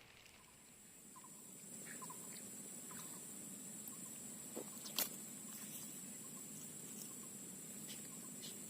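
Outdoor ambience: a steady high insect buzz, with a few short chirps in the first few seconds and a single sharp click about five seconds in.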